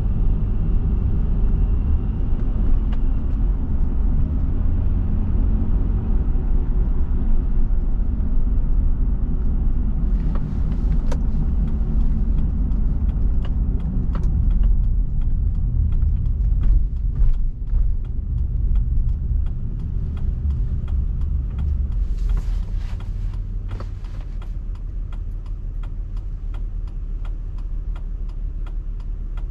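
A car driving, with a steady low road and engine rumble that eases a little near the end. From about halfway through, faint evenly spaced ticks run under it.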